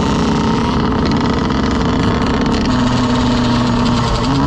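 Dirt bike engine running steadily, its pitch holding even and then starting to rise near the end as the rider throttles up.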